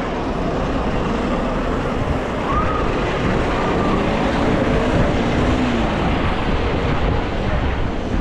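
Steady, loud wind rushing over the microphone of a moving bicycle, mixed with rolling street noise, with a few faint rising and falling tones in the middle.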